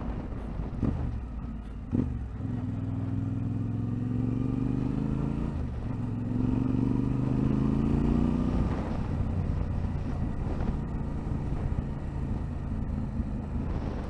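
A vehicle engine pulls along a rough, potholed track. It rises gently in pitch for a few seconds before easing off, over a steady rumble from the road. A few sharp knocks come from the vehicle jolting through potholes, the clearest about two seconds in.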